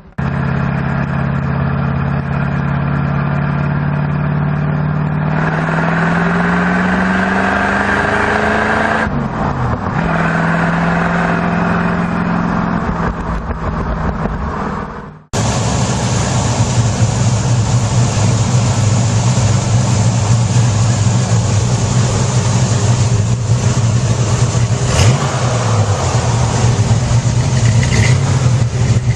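Muscle car V8 engines running: the engine note climbs as it revs about five seconds in and drops back near ten seconds, then a sudden cut about fifteen seconds in switches to another engine running steadily with a lower, rougher note.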